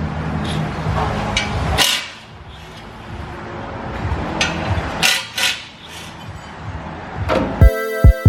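A car engine idles low for about two seconds. Then come several sharp knocks of shop work, and near the end a hip hop beat with heavy bass hits starts.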